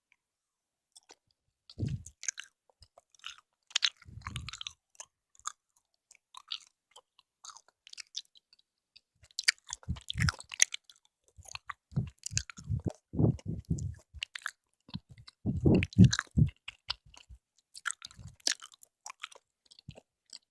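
Close-miked chewing of jelly candy: irregular wet, sticky mouth clicks and smacks, with bursts of louder squishy chewing near the middle and around two-thirds of the way through.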